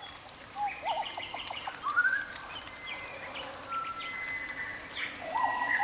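Birds chirping and singing in short calls and trills over a faint outdoor hiss, fading in and growing busier toward the end.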